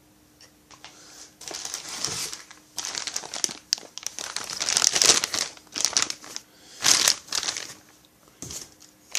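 Packaging crinkling and rustling in irregular bursts as a kit part is unwrapped by hand, with a faint steady hum underneath.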